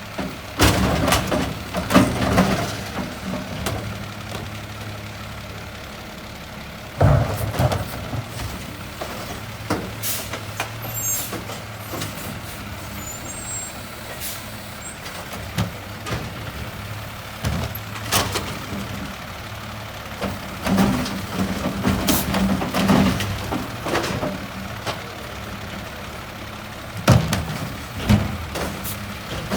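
Peterbilt 520 garbage truck with a Loadmaster Eclipse automated side loader at work, its diesel engine running steadily and picking up in the second half. Repeated sharp knocks and bangs, with air-brake hisses.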